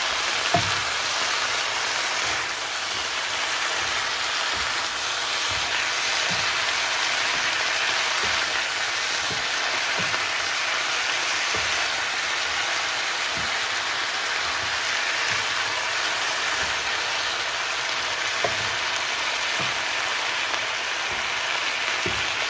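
Diced vegetables, liver and sausage sizzling steadily in a hot frying pan while they are being stir-fried, with occasional soft knocks of a wooden spatula against the pan.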